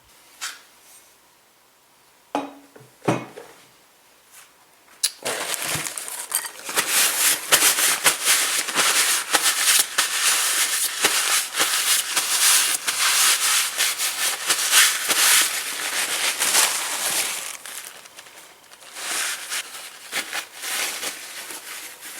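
A few sharp knocks, then about twelve seconds of dense crackling, rustling noise full of fine clicks, which stops and comes back briefly near the end.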